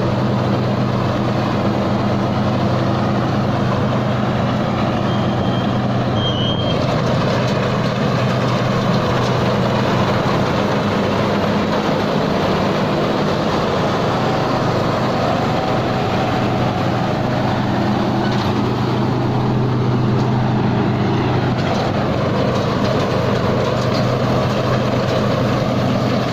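Taiseng rice combine harvester's engine running steadily at constant speed under load as it harvests through a muddy field.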